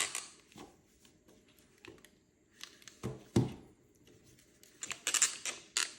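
Plastic 3D-printed headphones being handled: a few short clicks and rubbing sounds at the start and around three seconds in, then a quick cluster near the end.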